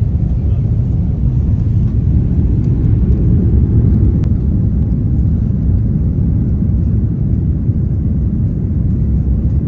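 Airliner cabin rumble from the engines and airflow, loud and steady, low-pitched and without a clear tone.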